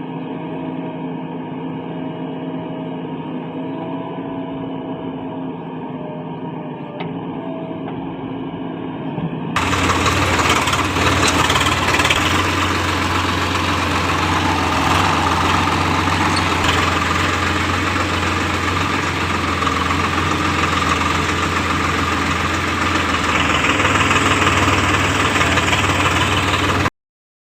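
Heavy diesel machinery engines running steadily, as a JCB backhoe loader works with a tractor. About ten seconds in the sound turns much louder and fuller, with a strong low drone, and it cuts off abruptly near the end.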